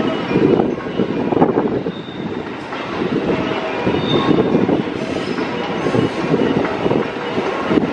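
A JR West 221 series electric train running slowly into the platform over curved pointwork, its wheels rumbling and clattering, with two brief high wheel squeals about two and four seconds in.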